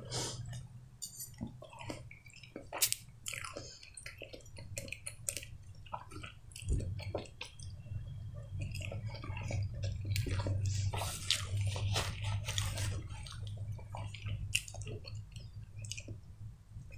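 Close-miked chewing of soft, wet food, diced beetroot salad among it: many short moist smacks and clicks of lips and tongue. A low steady hum rises under the chewing for several seconds in the middle.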